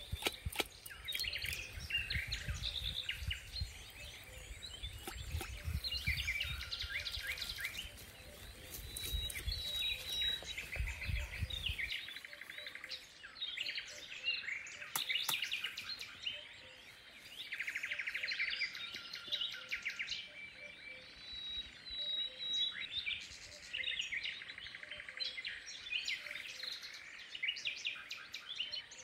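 Birds chirping and trilling in quick repeated phrases, with a low rumble underneath for the first twelve seconds that cuts off suddenly, and a few sharp clicks.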